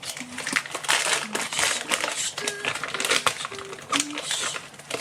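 Plastic food packaging being crinkled and handled: a dense, irregular run of rustles and small clicks.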